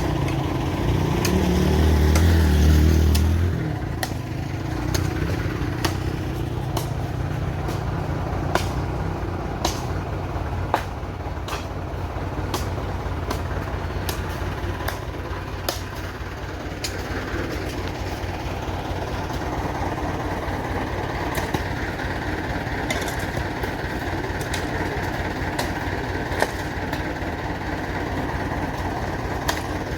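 Tractor engine running under load as it tries to get out of deep mud: louder for the first three seconds or so, then steady, with scattered sharp clicks and knocks.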